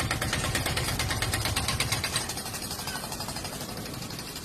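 A machine's engine running with a fast, regular mechanical chatter that slowly fades.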